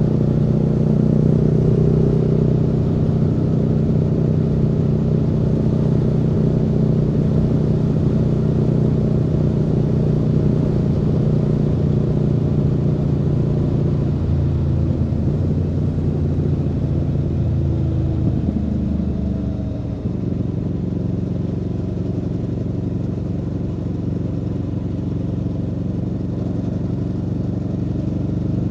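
Aprilia Tuono V4's V4 engine running under way, heard from on the bike. Its note holds steady, steps lower about halfway through, and shifts again and turns a little quieter about two-thirds of the way in.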